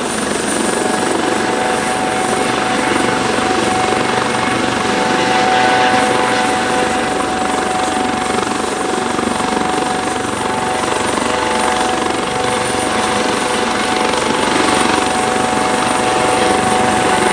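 Airbus AS365N3 Dauphin helicopter's turbine engines and rotors running steadily, with a high whine over the rotor noise.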